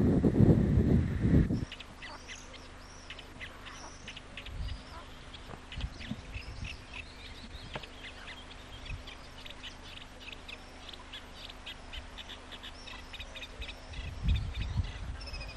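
Wind buffeting the microphone for the first second and a half, then many short, high chirps from small birds in quick runs, over a faint steady hum. Wind noise comes back near the end.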